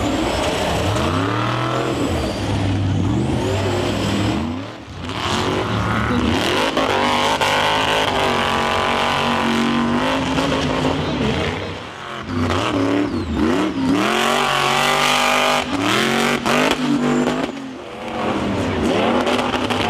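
Monster truck engine revving hard, its pitch climbing and falling again and again as the throttle is worked, with short drops in power about 5, 12 and 18 seconds in.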